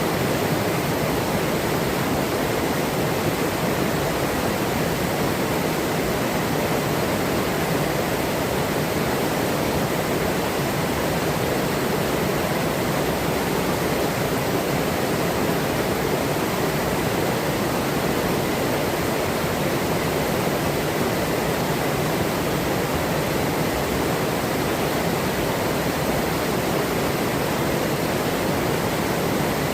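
River water rushing steadily over rocks, a dense unbroken hiss and roar.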